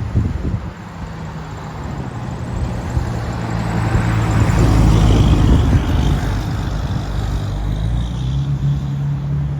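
A motor vehicle passing close by: its engine and tyre noise builds to a peak about five seconds in, then eases off.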